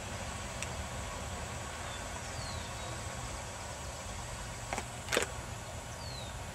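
Freight train cars rolling past in a steady low rumble, with two sharp knocks about five seconds in.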